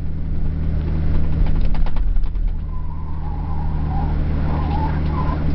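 Toyota LandCruiser 4WD running slowly on beach sand, heard from inside the cabin as a steady low engine drone, with a few sharp clicks or rattles about a second and a half in.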